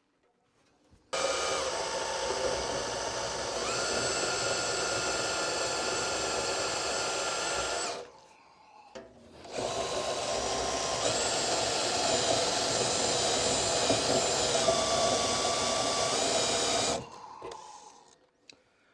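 Power drill running in two long runs of about seven seconds each, with a short pause between, drilling holes. Its motor whine holds steady with a few small shifts in pitch.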